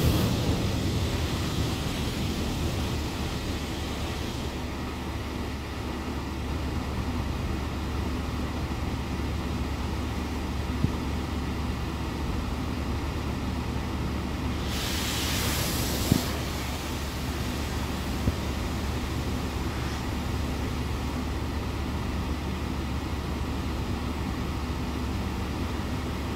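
Car wash machinery running with a steady low rumble. About fifteen seconds in comes a hissing burst of about a second and a half, followed by a sharp click.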